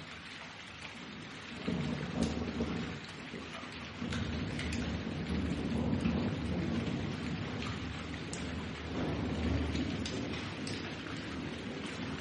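Thunderstorm: steady rain with rolls of thunder rumbling low, swelling about a second and a half in and again around four and nine seconds.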